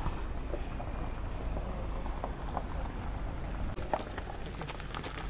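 Steady low rumble of wind buffeting the microphone, with a few faint scattered clicks.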